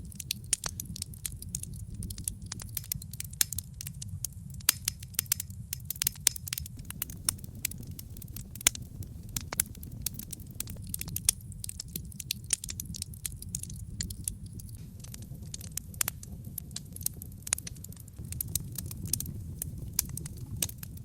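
Wood logs burning in a fireplace, crackling with many sharp irregular pops over a steady low rumble of the flames.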